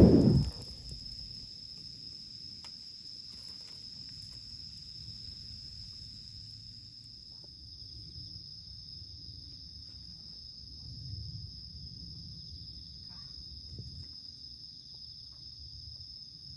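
Insects chirping as one steady high-pitched drone over a low rumble, with a few faint clicks. A short loud low thump right at the start.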